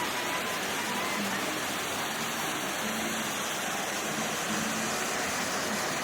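Steady, even rushing noise, with faint voices far in the background.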